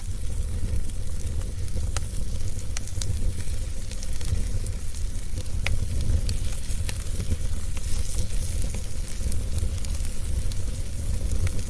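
Wood fire crackling in a fireplace, with scattered sharp pops over a steady low rumble and hiss.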